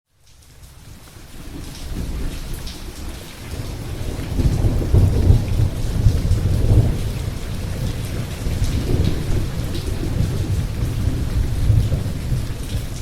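Thunderstorm recording: steady rain with rolling thunder rumbling underneath. It fades in from silence at the start, and the thunder swells most about four to seven seconds in, with further rolls later.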